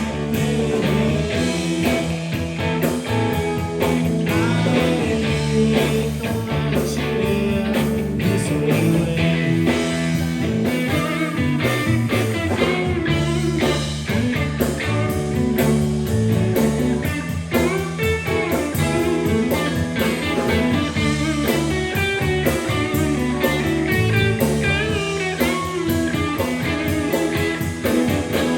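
Live blues-rock band playing an instrumental passage, an electric guitar line bending over bass and drums.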